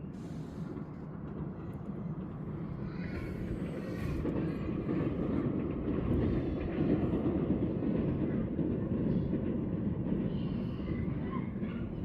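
Low rumble of a passing vehicle, building up to its loudest about halfway through and easing off toward the end.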